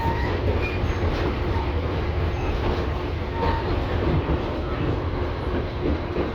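LVS-2009 low-floor tram running along its rails, a steady low rumble of wheels and running gear with a few short, faint squeaks.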